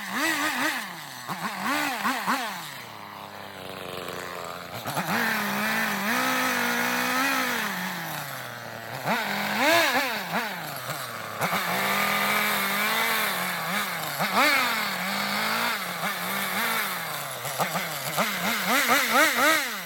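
Chainsaw cutting into eastern red cedar, revving up and down again and again with a few held runs. It cuts off at the very end.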